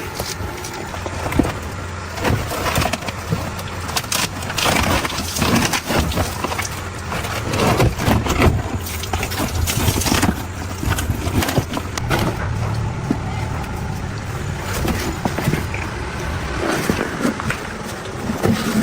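A machine running steadily with a low hum, with irregular knocks and clatter over it.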